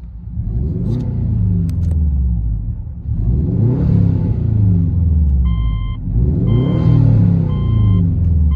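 Subaru Outback XT turbocharged flat-four blipped up and down several times through a 2.5-inch exhaust with high-flow cats and a Flowmaster Super HP2 muffler: a deep, fairly restrained exhaust note. About halfway through, an electronic beep starts, repeating about once a second.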